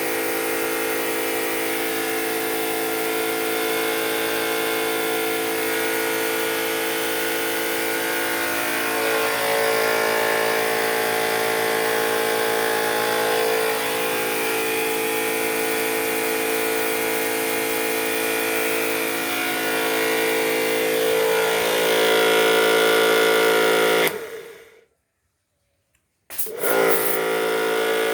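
Tecepo electric pressure washer running steadily on its first suction test, drawing water through its intake hose; its hum dips slightly in pitch a few times. Near the end it cuts out for about two seconds, then runs again.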